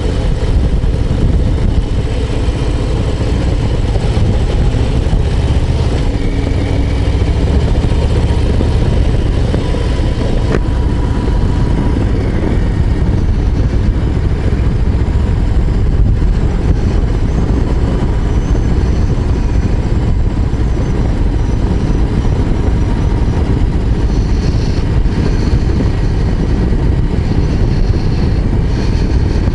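Harley-Davidson Low Rider ST's Milwaukee-Eight 117 V-twin running steadily under way, a dense low rumble with no sharp revs.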